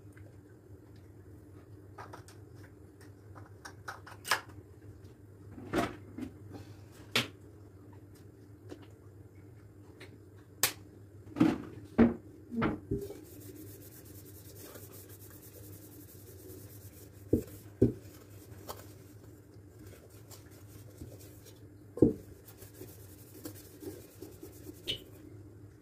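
Scattered knocks, clicks and light clatters of household items being handled and set down, with cupboard or dish sounds among them, over a low steady hum.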